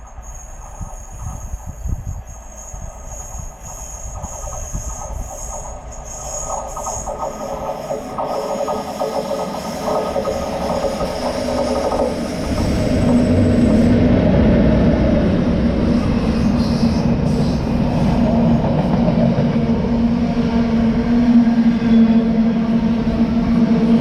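Diesel-hauled freight train approaching and passing: a high ringing from the rails at first, then a steadily growing rumble over about fourteen seconds until a locomotive's steady engine note arrives and holds loud.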